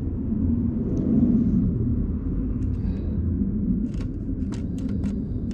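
A steady low rumble, with a handful of light clicks and taps from about halfway through.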